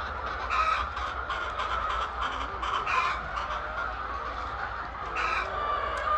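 Domestic chickens clucking, a run of short calls throughout.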